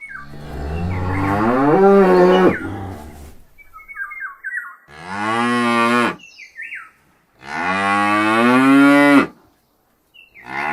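Cow mooing: three long, drawn-out moos, the first rising in pitch and the longest.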